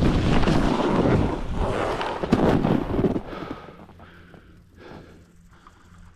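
Snowboard sliding through snow with wind rushing over the helmet camera's microphone, a loud rumbling rush that stops about three seconds in, leaving only faint noise.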